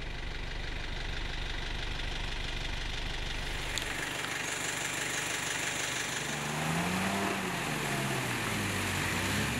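Vehicle engine idling, then revving up and down from about six seconds in, under load as a stuck 4x4 is towed out of deep mud by a pickup truck.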